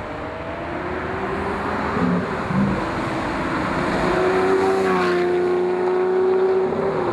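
Lamborghini Murcielago LP640's V12 engine running under load, its pitch rising slowly, then holding steady for a few seconds before dropping near the end.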